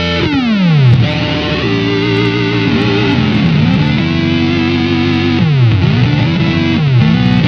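Electric guitar played through an EarthQuaker Devices Data Corrupter PLL synth pedal, giving a buzzy synth tone with many stacked harmonics. The pitch swoops steeply down just after the start, then holds notes that dip and slide to new pitches several times.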